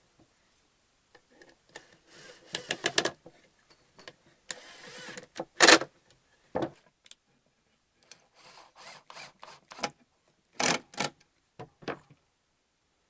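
Irregular knocks and clatter of wood and tools being handled, with a short scrape partway through. The loudest knock falls near the middle, and a quick pair of sharp knocks comes later.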